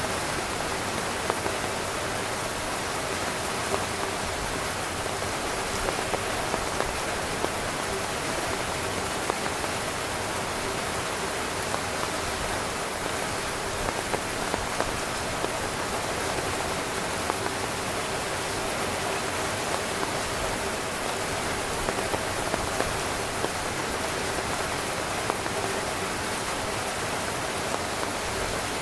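Heavy rain drumming steadily on a tent's fabric, with a dense patter of individual drops landing close by.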